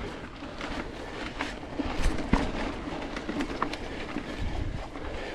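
Mountain bike rolling over a rough dirt trail: steady wind and tyre noise with irregular clicks and rattles from the bike and the camera mount.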